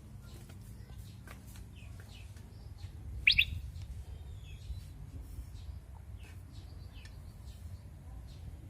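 Small birds chirping in short, scattered calls, with one louder chirp about three seconds in.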